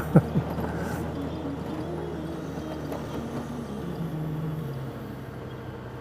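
Motorcycle engine running steadily while riding, a low hum whose pitch drifts slightly up and down, with road and wind noise behind it.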